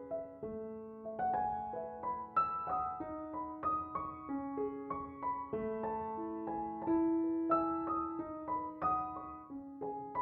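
Background piano music, notes struck one after another in a calm melody over held lower notes.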